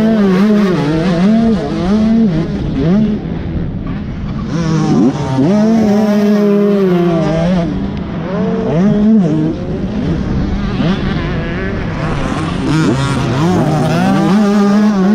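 Motocross dirt bike engine run hard on and off the throttle: its pitch climbs, drops and climbs again over and over as the rider accelerates, shifts and backs off.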